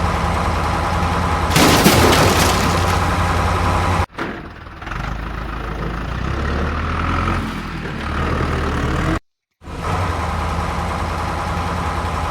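Vehicle engine running steadily, in separate clips cut together: a loud rushing burst about two seconds in, a sudden change near four seconds, and a brief cut to silence just past nine seconds before the engine sound resumes.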